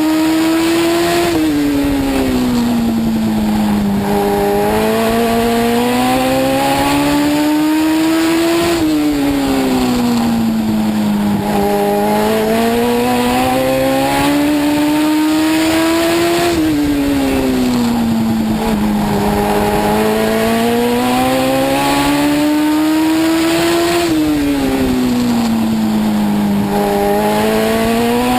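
Legend car's four-cylinder Yamaha motorcycle engine, heard from inside the car on an oval, lapping: the engine note climbs steadily on each straight, then drops as the driver lifts for the turn, about every seven and a half seconds.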